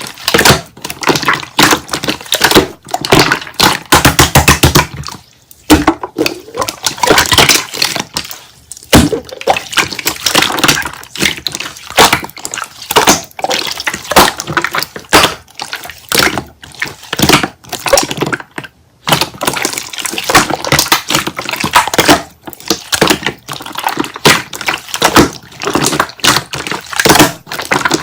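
Slime being squeezed and kneaded by hand, a dense, irregular run of wet pops, clicks and crackles.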